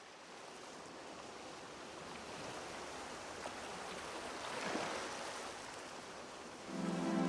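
A steady rushing water sound that fades in, swells about two-thirds of the way through and eases off. Near the end, background music enters with sustained low notes.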